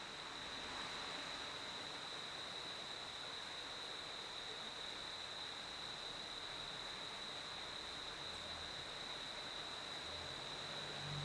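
Crickets chirping in a steady, unbroken high-pitched chorus over a soft broad hiss of night ambience. A faint low hum comes in near the end.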